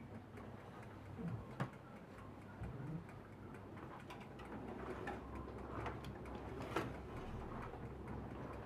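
Scattered light clicks and knocks of kitchen items being handled, irregular and fairly faint, over a low steady hum.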